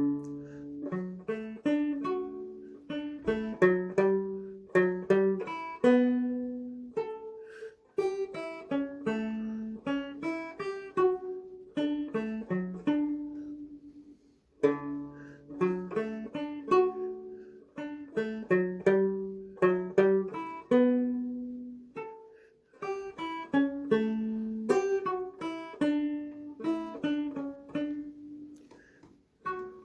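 Solo banjo playing a waltz melody, single plucked notes that ring briefly and die away, in phrases that pause for a moment about every seven seconds.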